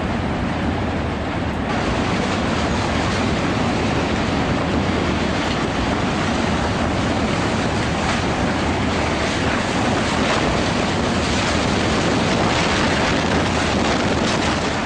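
Tornado roaring: a loud, steady rushing rumble like a passing freight train, growing a little louder and harsher about two seconds in.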